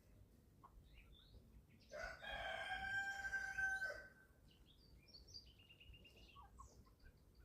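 A rooster crowing once, a single call about two seconds long, with short high chirps and peeps scattered around it.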